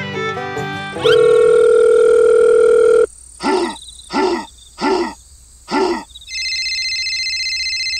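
Telephone sound effects. Background music stops about a second in, a steady dial tone follows for about two seconds, then come four short separate tones and a steady ringing tone to the end.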